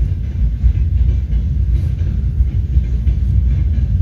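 A steady low rumble with no clear rhythm or pitch.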